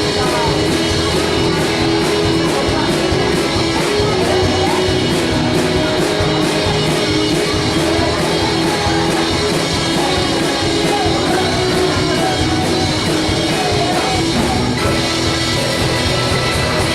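Live indie rock band playing loud and steady: two electric guitars, bass, keyboard and a driving drum beat, with a singer's voice faintly in the mix.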